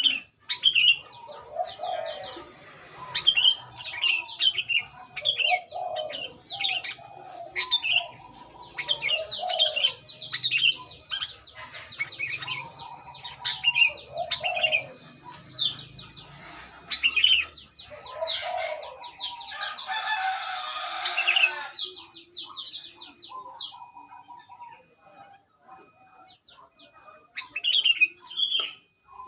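Sooty-headed bulbuls (kutilang) calling: runs of quick chirps and short whistled notes, repeating, with a harsh rasping burst about two-thirds of the way through. The calls are used as a lure to rile rival bulbuls into answering.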